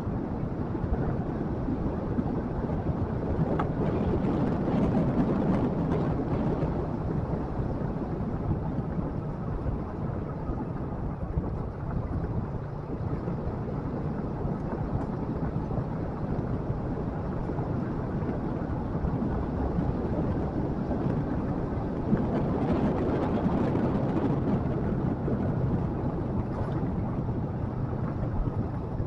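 Motorcycle engine running under way, mixed with wind rushing over the microphone. The sound swells louder twice, about five seconds in and again a little past twenty seconds.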